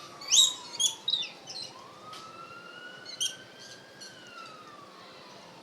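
Birds feeding close by give a burst of short, sharp, high calls in the first second and a half and again about three seconds in. Behind them a faint siren wails slowly up and down.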